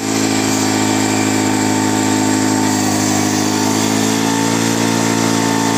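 Bajaj Pulsar 200's single-cylinder engine held at steady high revs while the rear tyre spins in a burnout.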